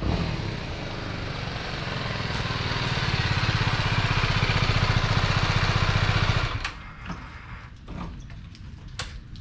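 Motorcycle engine running with a fast, even pulsing, growing louder over several seconds, then stopping abruptly about two-thirds of the way in. A few light clicks and knocks follow.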